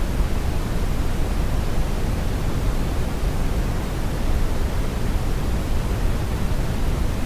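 Steady brown noise: a constant, deep rumbling hiss weighted toward the low end, with no events or changes.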